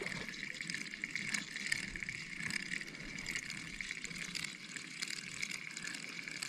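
Water splashing and churning as a hooked largemouth bass is fought and brought in on the line.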